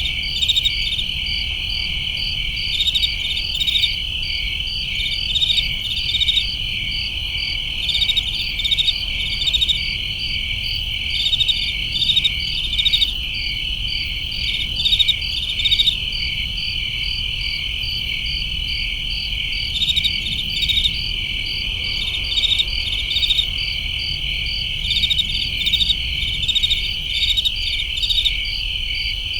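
A chorus of crickets: a steady high trill with louder rhythmic chirps pulsing over it every second or so, above a faint low rumble.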